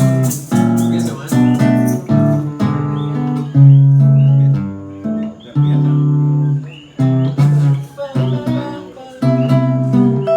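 Acoustic guitar playing the instrumental introduction to a song, picked notes and struck chords, each ringing and dying away, in short phrases.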